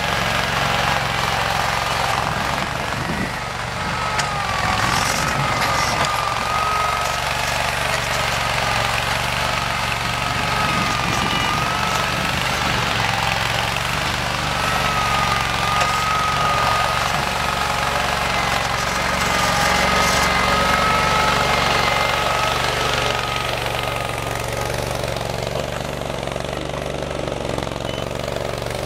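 Simplicity Legacy garden tractor's engine running steadily, with a higher whine that wavers slightly up and down in pitch.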